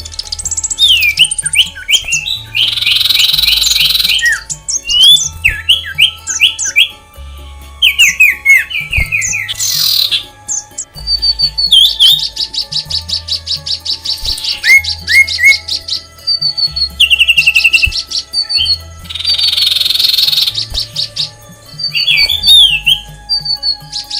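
Several aviary birds calling over one another: short falling whistled notes, a long rapid trill in the middle, and two harsh rasping squawks, one early and one later. Background music with a low bass line plays underneath.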